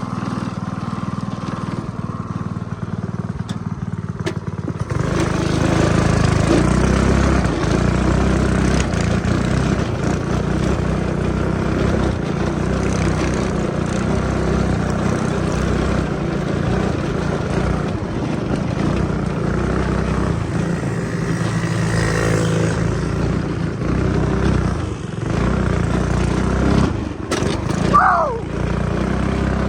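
Small engine of a homemade snow-riding vehicle running steadily, growing louder about five seconds in as the vehicle is ridden close by. A short falling tone comes near the end.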